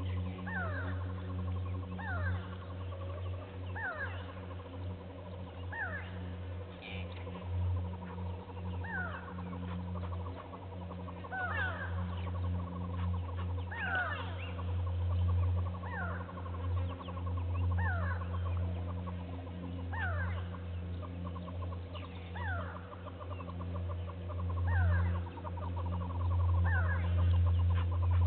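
A bird repeating a short falling call about every two seconds, over a steady low hum.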